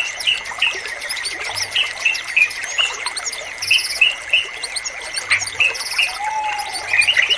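Sooty-headed bulbuls (trucukan) and other birds calling in a dense run of short, quick chirps over a steady high tone. A lower slurred whistle rises and falls a little past five seconds in.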